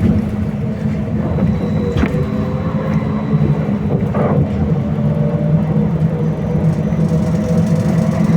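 Interior of a BKM-321 trolleybus on the move: the steady running rumble of the vehicle with a constant faint high whine, and a single sharp knock about two seconds in.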